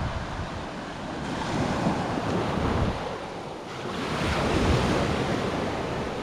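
Surf breaking on a beach: a steady rush that swells and eases, dipping about three and a half seconds in, with wind buffeting the microphone.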